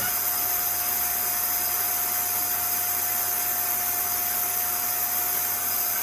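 Vacuum cleaner running steadily: a constant rushing hiss with a thin, steady whine in it.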